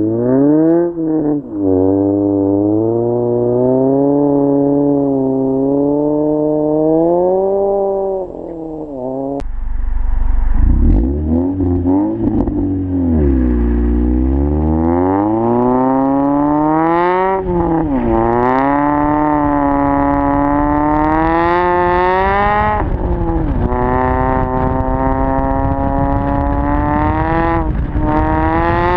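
Mitsubishi Lancer X's 2.4-litre 4B12 inline-four heard through a full exhaust system. The revs rise and fall again and again, then hold fairly steady over the last few seconds.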